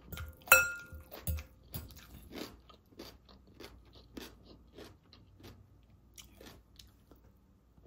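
A metal fork clinks once against a glass bowl about half a second in, then close-up crunchy chewing of a raw vegetable salad, growing quieter near the end.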